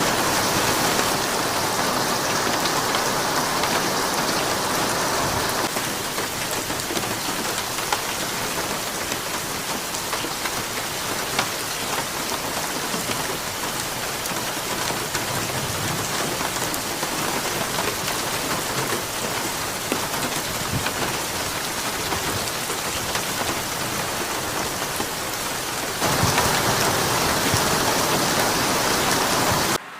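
Steady rain falling, heavier for the first few seconds and again near the end, then cutting off suddenly just before the end.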